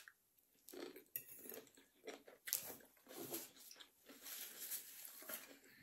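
Quiet, irregular chewing of a mouthful of broccoli and food, with small mouth clicks picked up close to the microphone.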